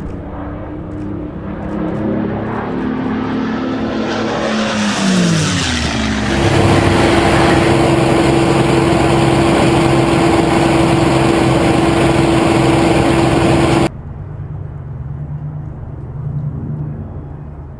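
Piston-engined propeller warbirds flying past: the engine note drops steeply in pitch as they pass about five seconds in. A very loud, steady engine note with heavy rushing noise follows and cuts off abruptly about 14 seconds in, leaving a quieter, more distant engine drone.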